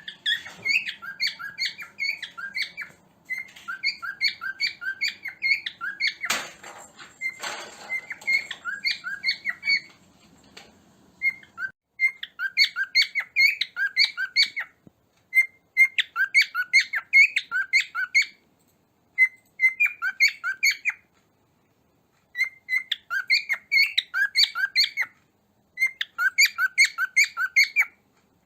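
Cockatiel chirping and whistling in rapid strings of short, high chirps. The chirps come in bouts of two to three seconds, separated by short pauses in the second half.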